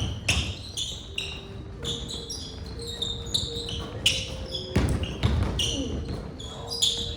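Basketball play on a court: the ball bouncing with dull thuds, amid many short, high sneaker squeaks.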